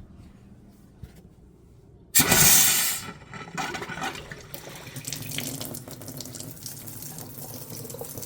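Faucet turned on through a newly installed water filter: about two seconds in a loud gush starts, then settles into water running steadily from the tap, flushing the new filter.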